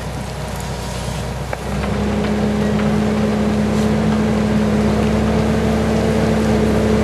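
A large engine running steadily, rising about two seconds in to a louder, higher, even hum that it then holds.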